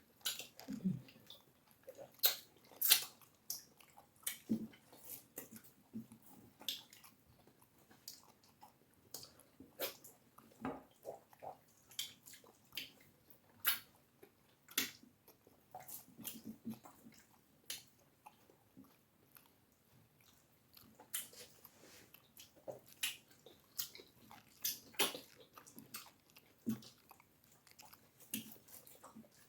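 Close-miked eating sounds of people eating cassava fufu with egusi soup: irregular wet mouth smacks, clicks and chewing, some sharper than others.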